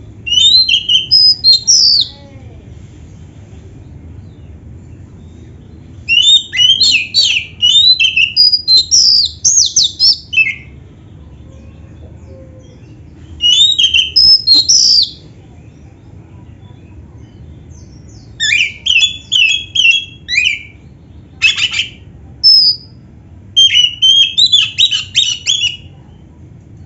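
Oriental magpie-robin (kacer) in full song, with mimicked canary phrases: loud bursts of rapid, sharply gliding high chirps and whistles. There are five bursts, each a second or several seconds long, with pauses of a few seconds between them.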